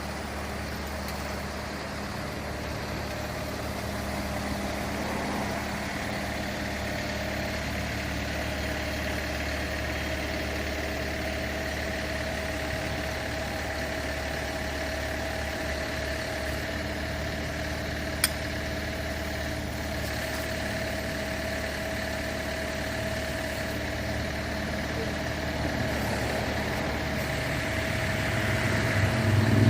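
Fire truck engine running steadily at idle with a steady whine over it. There is one sharp click about two-thirds of the way through, and the engine noise grows louder near the end.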